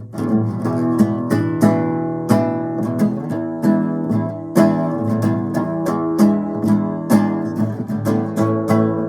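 Acoustic guitar playing a blues instrumental, strummed and picked in a steady rhythm of sharp strokes with chords ringing between them.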